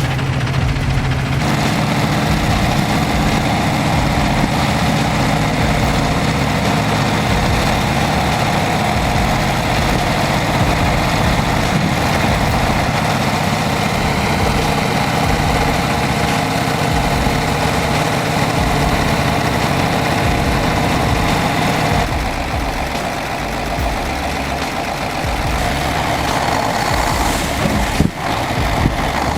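A heavy truck's engine running steadily. Its sound changes abruptly about a second and a half in and again about two-thirds of the way through, and briefly drops near the end.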